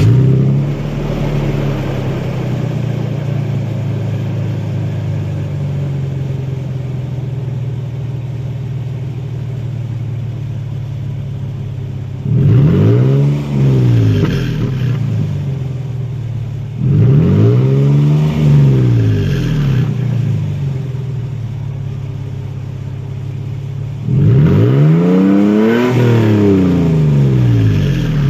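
A Toyota Tacoma's 4.0-litre V6 through a Gibson cat-back exhaust (one large unpacked muffler, stainless tip), idling just after start-up, then revved three times. The first two revs go to about 3,000 rpm and fall back to idle; the last goes higher, to about 4,500 rpm, and is held longer.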